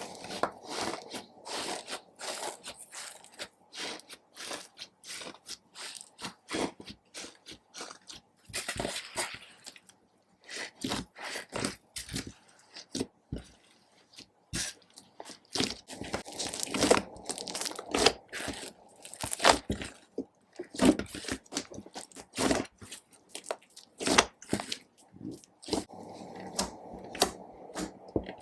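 Slime being worked by hand, giving a dense, irregular run of crunchy crackles and popping clicks.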